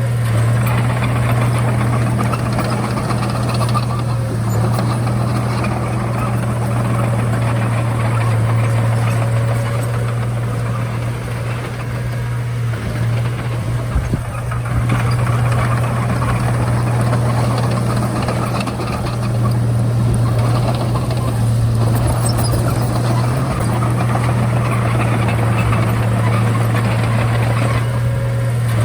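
Komatsu D31A bulldozer's diesel engine running steadily under work, with a strong low drone. The engine note eases briefly about halfway through, then picks up again.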